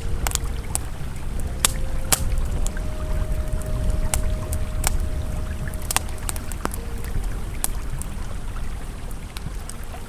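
Campfire crackling, with frequent sharp pops scattered irregularly, over the steady low rush of a flowing river. A faint held tone sits in the background.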